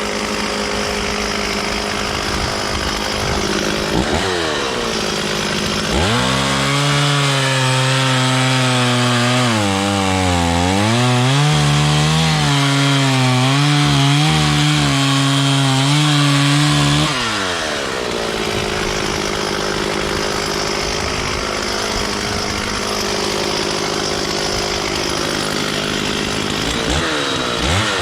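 Stihl 440 two-stroke chainsaw cutting wood. The engine runs at a lower speed, climbs to full throttle about six seconds in, sags in pitch under load for a moment, and drops back about two-thirds of the way through. It revs up again at the very end.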